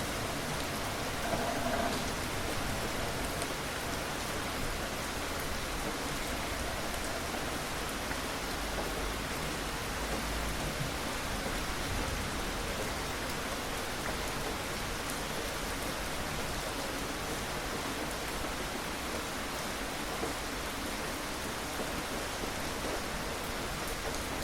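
Steady rain falling, an even hiss of drops that keeps the same level throughout.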